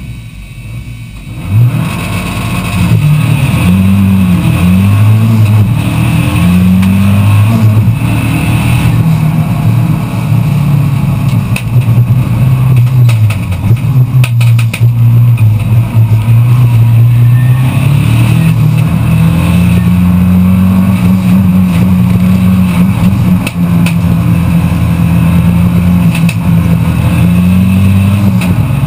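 Lancia Delta Integrale's turbocharged four-cylinder engine heard from inside the cockpit, launching off the start line about a second and a half in, then revving hard, its pitch rising and dropping again and again with each gear change.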